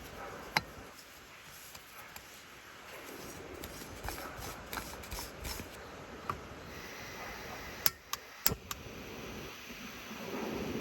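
Scattered small clicks and knocks of objects being handled over a faint steady background, with a sharp click about half a second in and a quick cluster of three or four clicks near the end.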